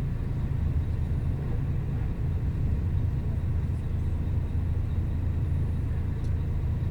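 Bus interior while riding: a steady low engine and road rumble.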